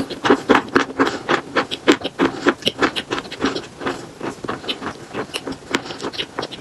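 Eating chalk with paste: rapid, irregular crunching as the chalk is bitten and chewed, several crunches a second.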